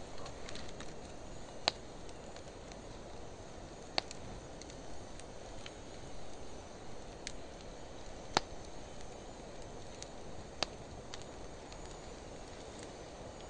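Campfire of driftwood and dry hardwood burning, slowed to half speed: a steady low rush of flame with scattered crackles, including four sharp pops that spread out over the stretch.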